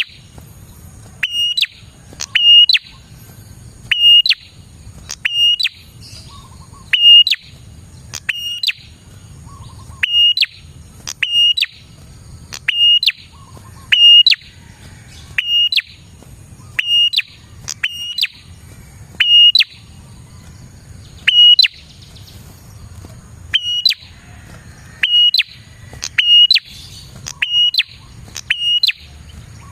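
Prinia (prenjak) calling: short, sharp, loud calls repeated about every second to second and a half, with a few longer pauses, as used in a lure recording for prinias. A faint steady high tone runs underneath.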